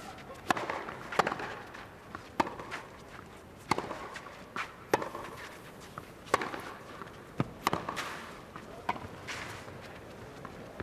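Tennis rally on a clay court: racket strikes on the ball, a sharp crack about every second and a quarter, with fainter scuffs of the players' feet between shots.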